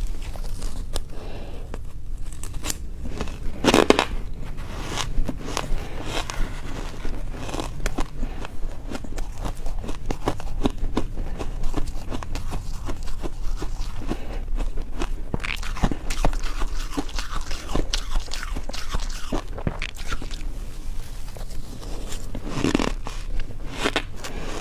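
Ice being bitten and crunched between the teeth: a run of sharp cracks and crackles as the pieces break, with louder bites about 4 seconds in and near the end.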